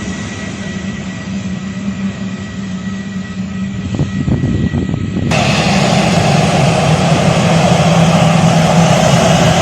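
Jet airliner engines running with a steady whine. About halfway through, the sound changes abruptly to louder, fuller engine noise that holds steady.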